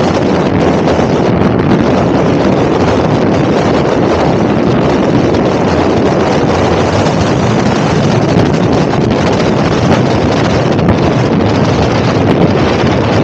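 Loud, steady wind rush over the camera microphone of an electric motorbike riding at speed.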